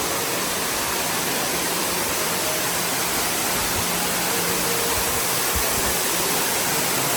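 Steady rush of an underground waterfall falling inside a cave, an even, unbroken roar of water.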